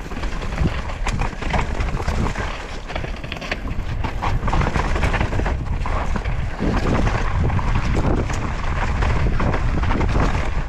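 Wind rushing over the microphone with the knobby tyres of a 2023 Devinci Chainsaw downhill mountain bike rolling over rough dirt trail, the bike rattling with frequent clicks and knocks. It gets louder about four seconds in as speed picks up.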